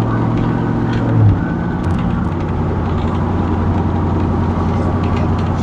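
Pickup truck's V8 with a BTR stage 1 truck cam (DOD and VVT deleted) running while driving, heard from inside the cab: a steady low engine and exhaust drone whose pitch drops about a second in.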